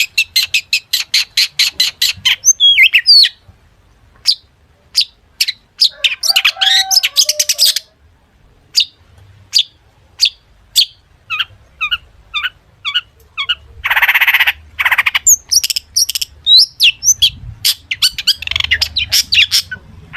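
Long-tailed shrike (cendet) singing a loud, varied song full of mimicked phrases. It opens with a fast run of short repeated notes and has two harsh rasping calls about two-thirds of the way through.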